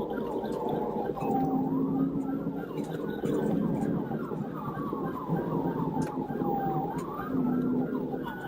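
Police car sirens in a chase: one slow wail falling and rising over several seconds, overlapping a fast repeating yelp.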